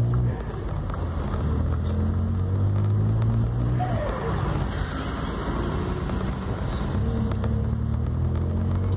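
Car engine running steadily, with a brief falling whistle and a hiss about four seconds in before it settles back to a steady note.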